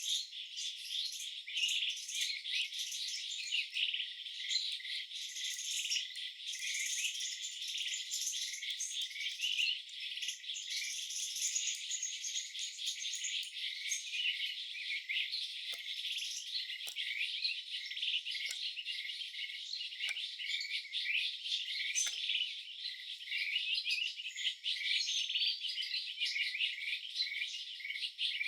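Dense, continuous chirping of birds and insects, many short calls overlapping, thin and with no low sound.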